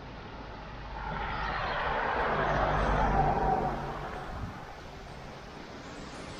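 A vehicle passing by: its sound swells over about two seconds, peaks about three seconds in, then fades away, over a steady background hiss.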